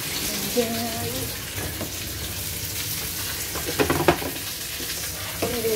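Chicken wings frying in oil and marinade in a wok, a steady sizzle, with a short clatter of knocks about four seconds in.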